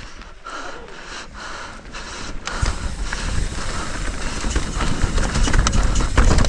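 Mountain bike descending a rough trail: wind buffeting the helmet camera's microphone over the rattle of tyres and bike parts on rocks and gravel. It gets louder about two and a half seconds in as the bike picks up speed.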